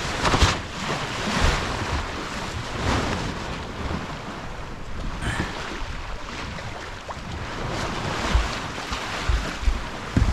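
Wind buffeting the microphone over water rushing and splashing past a sailboat under way, in uneven gusts and swells.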